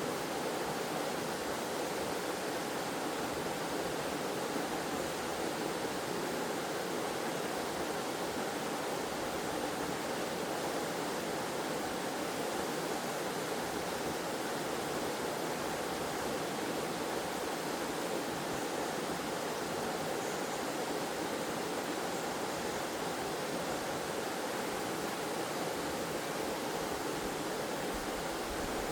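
Waterfall in a forest: water falling and flowing in a steady, unbroken rush, strongest in the mid and low-mid range.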